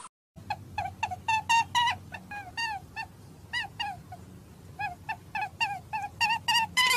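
A small animal's high-pitched squeaking calls: short, arched chirps, sometimes several a second in irregular runs, over a low steady hum.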